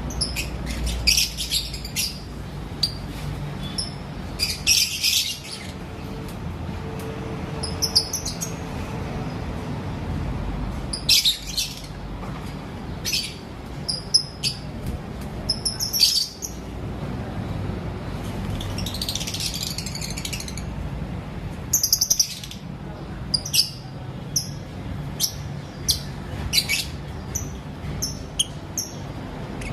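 Lovebirds chirping: short, shrill, high-pitched calls in scattered bursts every second or two, over a steady low background rumble.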